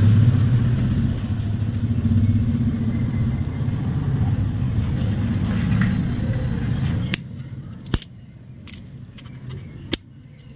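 A motor vehicle's engine running steadily nearby as a low hum, which cuts off abruptly about seven seconds in; after it, a few sharp metallic clicks of metal parts being handled.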